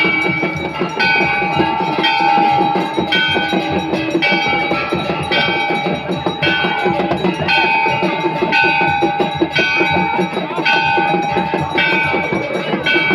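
Temple bells rung steadily for aarti, about one clang a second, with pitches that alternate between strikes, over a dense background din.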